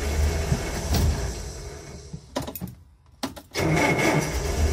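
Land Rover Series III 2.25-litre petrol four-cylinder engine being started cold with the choke out: it turns over and runs briefly, then dies away within about three seconds. After a few clicks from the ignition key, a second start attempt begins. The engine's refusal to keep running on choke when cold makes the owner suspect the mixture is already rich.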